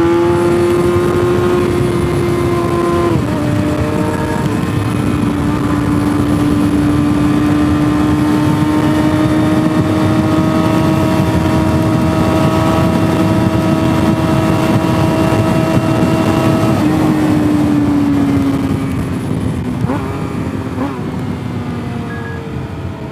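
Sport motorcycle engine under way at steady revs, with wind rushing past. The engine note drops once about three seconds in, as on an upshift, then holds. Near the end it falls away as the bike slows.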